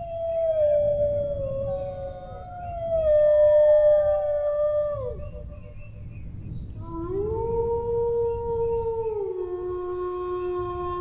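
Dog howling: long drawn-out howls that slide downward in pitch and trail off about five seconds in, then after a short pause a new howl that steps down partway through and is held to the end.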